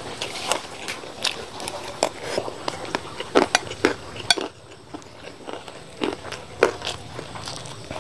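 Close-up chewing and crunching of fried rice mixed with small crunchy crackers: a string of sharp, irregular crunches and clicks. A metal spoon scrapes and clinks against the plate.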